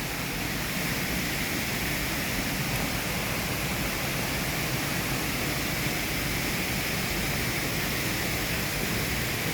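Waterfall rushing, a steady even roar of falling water close by.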